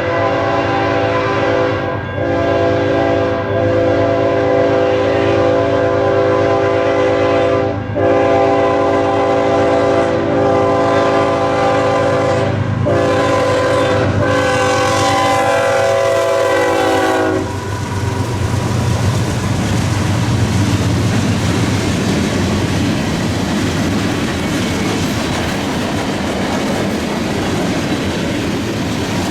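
Freight locomotive's multi-note air horn sounding in several long blasts as a BNSF train passes at speed. Its chord drops in pitch as the locomotive goes by and stops about 17 seconds in. The freight cars then roll past with a steady rumble and wheel clatter on the rails.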